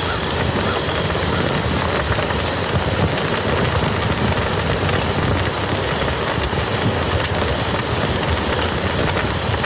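Wood campfire crackling with small irregular pops over the steady rush of a flowing river.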